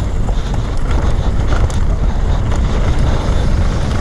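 Enduro motorcycle engine running while riding off-road, a steady low rumble with wind buffeting the microphone.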